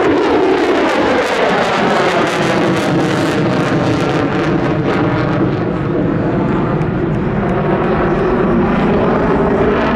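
Loud, steady jet noise from the F-35B Lightning II's single Pratt & Whitney F135 afterburning turbofan as the jet flies its demonstration.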